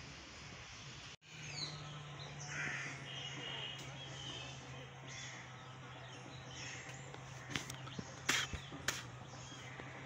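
Birds calling repeatedly over outdoor ambience, with a steady low hum starting about a second in and a few sharp clicks near the end.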